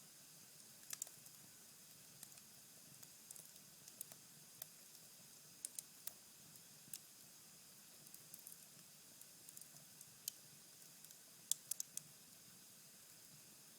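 Cherry-wood fire in a fireplace crackling faintly: sparse, irregular small ticks and pops over a soft hiss, with a quick cluster of sharper pops near the end.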